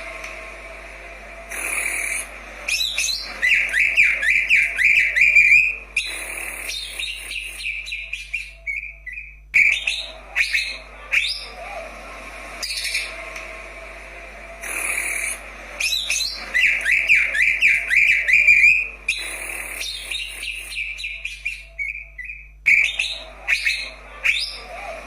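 Cucak ijo (green leafbird) singing: loud bursts of rapid whistled trills and chirps, and the same run of phrases comes round again about halfway through. A faint steady low hum lies underneath.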